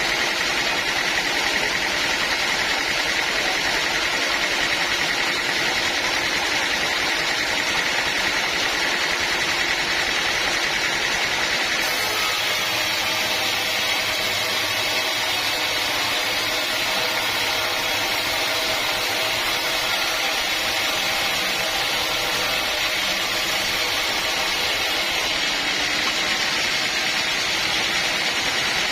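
Sawmill machinery running steadily: a continuous mechanical drone with a strong high hiss, joined by a deeper hum about twelve seconds in.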